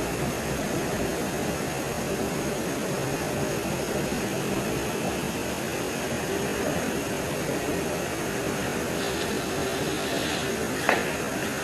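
Steady, unbroken hiss of night-time forest ambience, with a faint steady high-pitched tone over it and one sharp click near the end.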